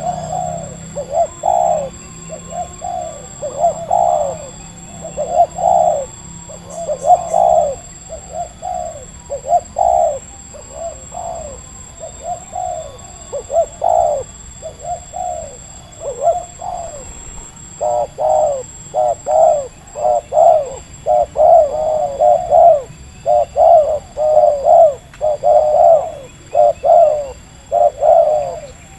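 Spotted doves cooing over and over, short repeated coos that come faster and louder in the last third.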